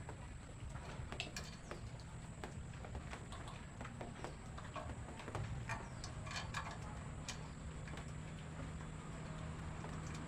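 Low steady hum with scattered light clicks and taps; the hum grows steadier and slightly louder about seven seconds in.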